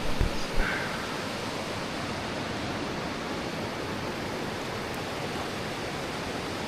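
Steady rushing of a fast-flowing river, with a few low knocks in the first second.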